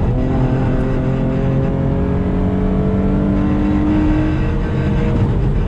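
Car engine heard from inside the cabin, accelerating hard down a circuit straight. It changes gear at the very start, then its pitch climbs steadily through the gear over a steady rumble of tyre and road noise.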